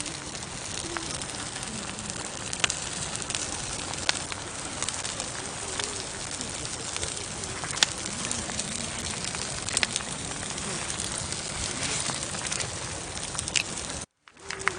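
Campfire burning: a steady hiss with scattered sharp crackles and pops of burning wood. Faint low bird calls sound in the background, and the sound cuts out for a moment near the end.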